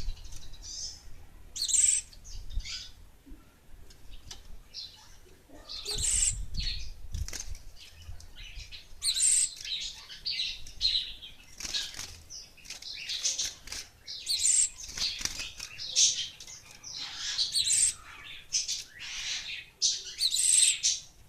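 Gelatik wingko bird giving short, sharp high chirps over and over at irregular intervals, with a burst of wing fluttering and thumps about six seconds in.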